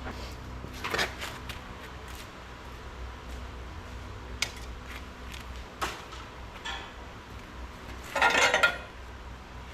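A few sharp metal clinks over a low steady hum, with a louder clanking rattle near the end.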